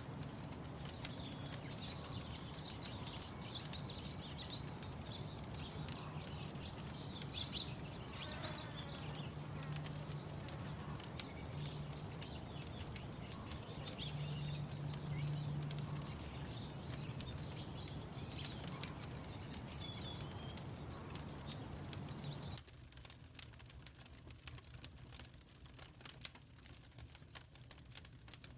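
Wood fire crackling with frequent sharp pops, with small birds chirping and a low steady hum behind it. About three-quarters of the way through, the birdsong and hum stop abruptly, leaving only the crackle.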